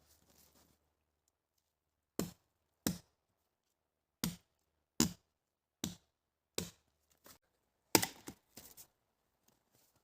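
Wood being chopped: about nine sharp strikes, roughly one every three-quarters of a second, starting about two seconds in.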